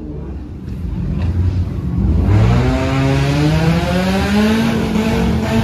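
Car engine accelerating hard. It rumbles low for about two seconds, then its note climbs steadily and grows louder before levelling off near the end.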